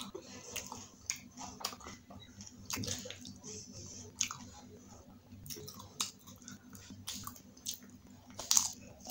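Chewing pani puri: wet, crunchy mouth sounds of crisp puri shells, with scattered sharp crunches. The loudest crunch comes near the end as a whole puri is bitten.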